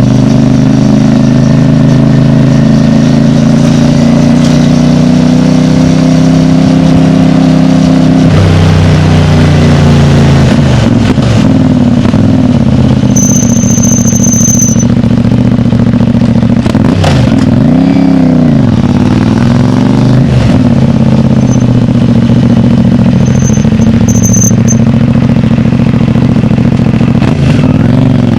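CFMOTO 450MT's parallel-twin engine running through its stock exhaust while the bike is ridden: a steady drone for the first several seconds, then the pitch falls and rises again several times as the throttle is closed and reopened.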